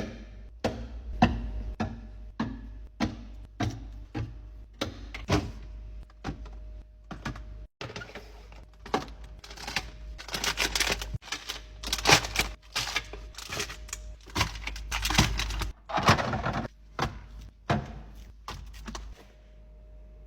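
Containers and packaged food handled and set down while stocking a fridge: a string of sharp clacks and knocks, with several longer noisy stretches in the middle.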